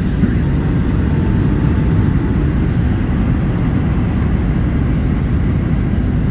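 Steady low roar of a Boeing 737-700 airliner heard from inside the cabin: the noise of its engines and the air rushing past the fuselage, holding even throughout.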